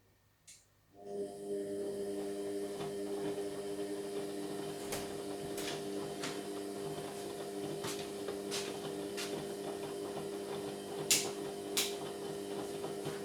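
Indesit MyTime washing machine mid-cycle: after a brief silence a steady hum starts about a second in and holds, with scattered clicks and light knocks over it.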